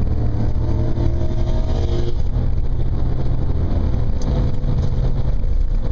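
The 5.7-litre V8 of a 2004 Pontiac GTO, heard from inside the cabin together with road noise as a steady low drone while the car runs down the strip.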